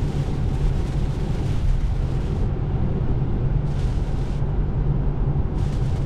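Steady low rumble of tyre and road noise heard inside an electric Tesla Model 3's cabin while driving on a wet road.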